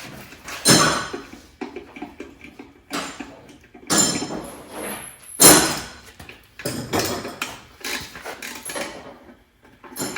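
Metal tools and engine parts clanking and knocking: about half a dozen sharp hits with a bright ringing tail, with smaller rattles between them.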